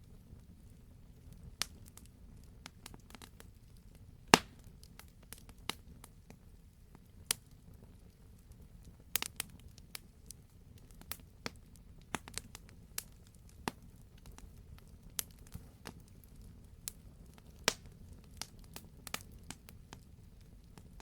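Wood fire crackling in a fireplace: irregular sharp pops and crackles over a low, steady background. The loudest pop comes about four seconds in.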